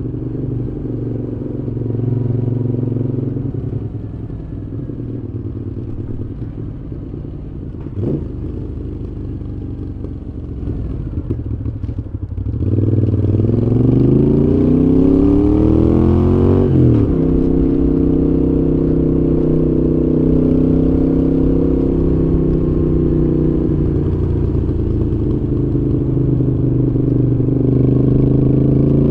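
Moto Guzzi V7's air-cooled transverse V-twin running through Mistral exhausts on the move. It cruises steadily until about halfway, when the throttle opens and the engine note climbs for a few seconds. The pitch drops suddenly at an upshift, and the engine then settles into steady cruising again.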